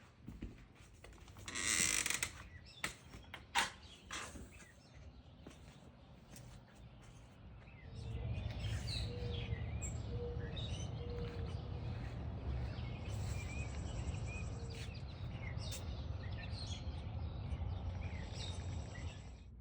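Small birds chirping in many short calls over a steady low outdoor rumble, starting about eight seconds in. Before that come scattered clicks and knocks and a brief noisy rush.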